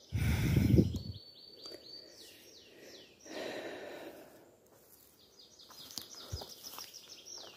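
A songbird singing twice: each time a quick run of high repeated notes, each note slipping downward, falling lower at the end. A burst of low rustling noise, the loudest thing here, comes in the first second, and a softer rustle about halfway through.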